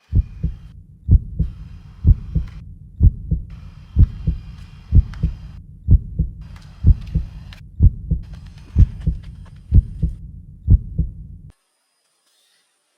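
Heartbeat sound effect: paired deep thumps, lub-dub, about once a second, stopping suddenly near the end.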